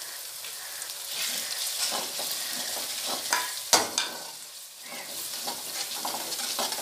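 Onion and tomato masala with freshly added ground spices sizzling in hot oil in an aluminium karahi, while a metal slotted spoon stirs and scrapes around the pan. There is one sharp knock about halfway through.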